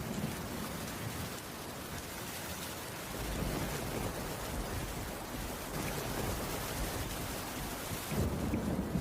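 Heavy rain falling steadily on a cabin's wooden roof, a constant hiss, with a deep low rumble that swells about three seconds in and again near the end.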